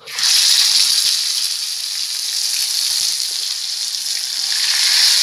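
Marinated chicken pieces going into hot coconut oil in a frying pan: the oil bursts into a loud, steady sizzle the moment the first piece goes in and keeps frying hard.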